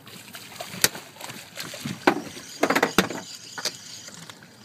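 Several sharp knocks and clicks, the loudest about two seconds in and a quick cluster near three seconds, over a low wash of water sloshing.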